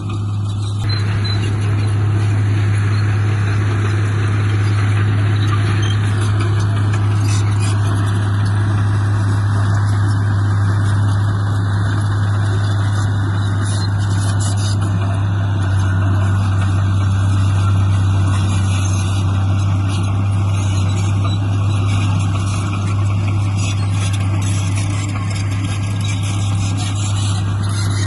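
Heavy diesel engine of earthmoving machinery running steadily, with a strong constant low hum and a wide mechanical noise over it.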